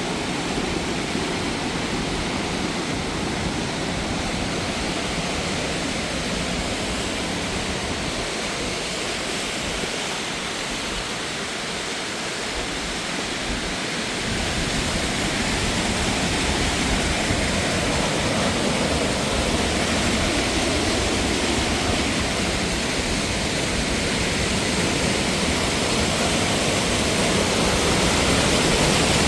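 Steady rush of falling and flowing water from a mountain waterfall or stream, a little louder from about halfway through.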